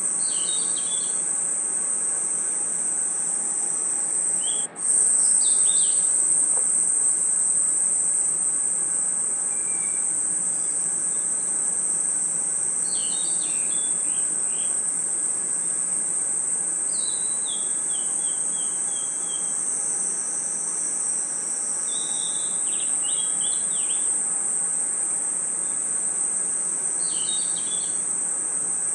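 Night chorus of crickets and other insects: a continuous high-pitched shrill trill, with short chirping calls breaking in every few seconds, one of them a falling series of notes midway. A brief cut-out about five seconds in, after which the chorus is slightly louder.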